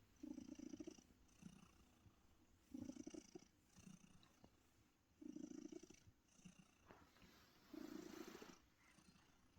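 Domestic cat purring quietly in a regular rhythm, a stronger stretch about every two and a half seconds with a weaker one in between.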